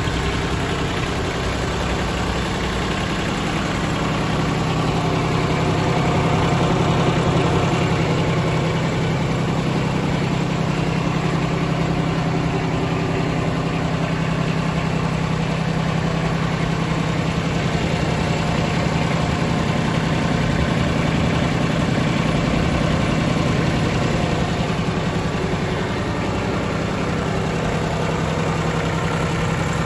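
Mitsubishi MTX13D mini tractor's water-cooled three-cylinder diesel engine running steadily at an even, idle-like speed, loudest briefly a few seconds in.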